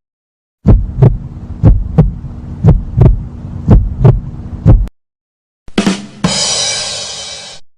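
Heartbeat sound effect: low double thumps, about one pair a second, five beats in all with a faint hum under them. After a short pause, a 'ba dum tss' rimshot: two quick drum hits and a cymbal crash that fades away.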